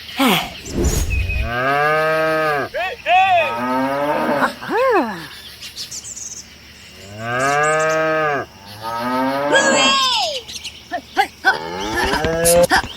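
Cattle mooing: two long moos, with several shorter rising-and-falling calls between and after them.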